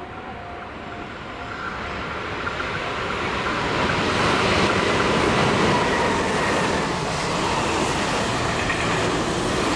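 Meitetsu electric train running through a station without stopping: the noise of its wheels on the rails grows louder over the first four seconds or so as it approaches, then holds steady as the cars rush past.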